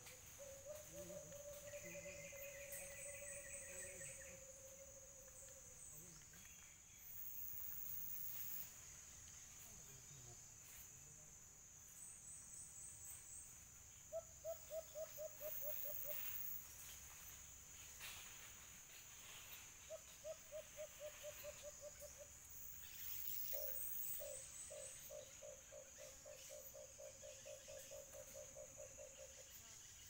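Steady high insect drone, over which a dove calls in low hoots: one long drawn note near the start, then several runs of quick repeated hoots, about four a second, the longest run near the end.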